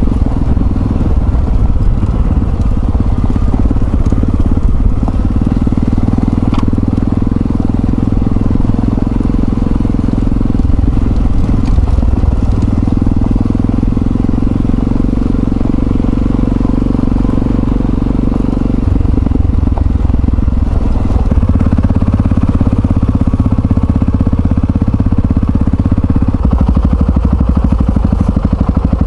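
Yamaha XT660Z Ténéré's single-cylinder engine running steadily as the motorcycle is ridden. The engine note shifts in pitch several times.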